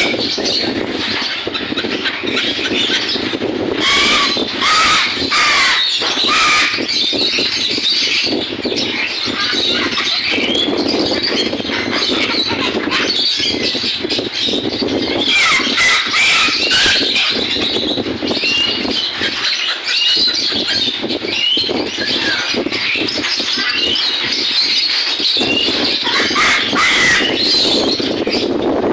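A crowd of caged birds squawking and chirping all at once, short overlapping calls with no pause, over a steady low background noise.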